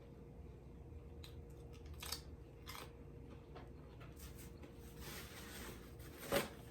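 Close-up eating sounds of thin-crust pizza being chewed: soft scattered crunchy clicks, with one louder knock near the end.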